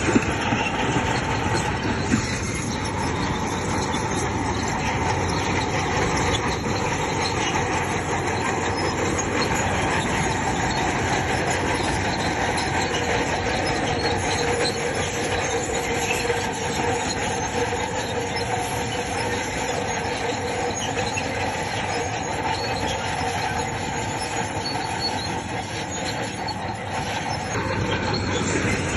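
Crawler bulldozer working, its engine running steadily while the steel tracks squeal and clank.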